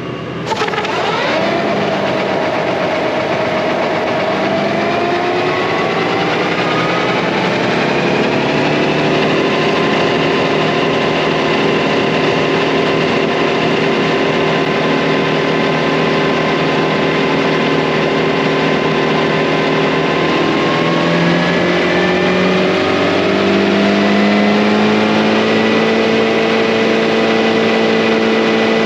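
Tractor engine running the repaired mower through the PTO, speeding up in stages, once around six to nine seconds in and again a little past twenty seconds, then holding a steady higher speed. No belt squeal: the mower's pulley is turning freely after the repair.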